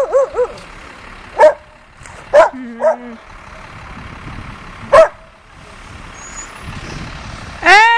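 Dog barking in short, sharp single barks, three loud ones a second or so apart and then a few seconds later, with a lower drawn-out call after the second. A vehicle engine runs steadily underneath.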